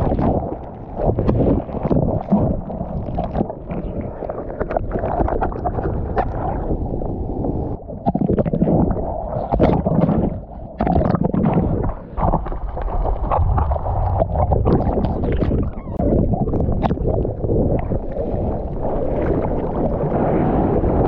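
Sea water sloshing and splashing close against a GoPro's housing. The sound is muffled and uneven, with short splashes.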